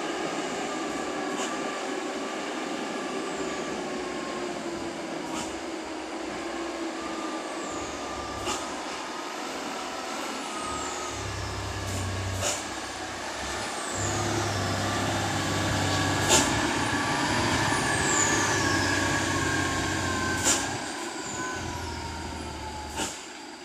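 Loaded dump truck's diesel engine running on a steep downhill grade, with a short, sharp air-brake burst every three to four seconds. The engine's low rumble grows stronger about halfway through.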